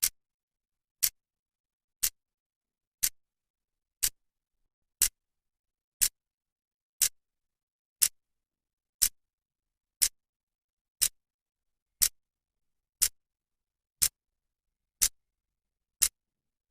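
Clock second hand ticking once a second, each tick a short sharp click with silence between.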